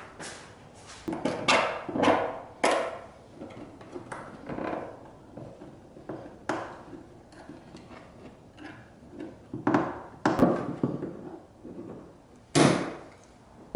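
Irregular knocks, thumps and rattles of hard plastic parts being handled and fitted, a boat seat and its fittings set against a plastic kayak, with several louder thuds around two seconds in, near ten seconds in and near the end.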